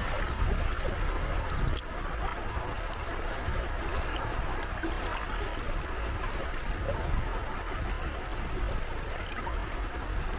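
Gentle sea waves washing and lapping at the shore: a steady watery hiss over a low rumble.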